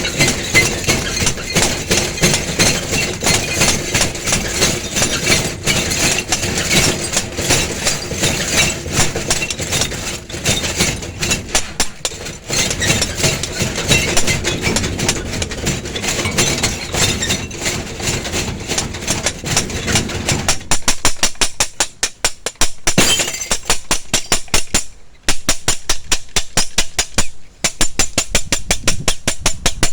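Space-sound recording of dense crackling static that runs loud and unbroken, then about two-thirds of the way through turns into a fast, even train of sharp clicks, several a second.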